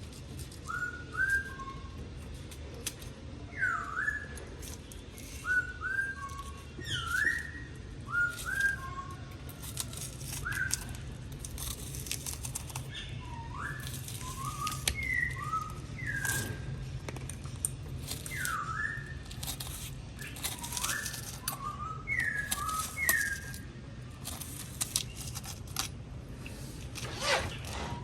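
Short whistled chirps, repeated many times with irregular gaps, each a quick swoop in pitch, like a small bird calling. They sound over a steady low hum and scattered sharp clicks.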